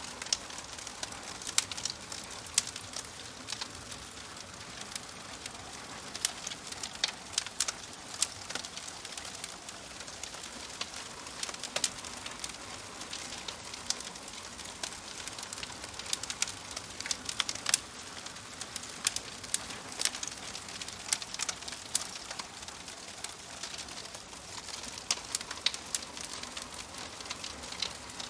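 Fireplace fire crackling: many irregular sharp snaps over a steady soft hiss.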